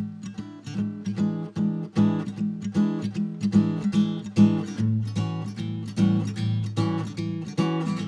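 Background music: acoustic guitar picked and strummed in quick, even notes.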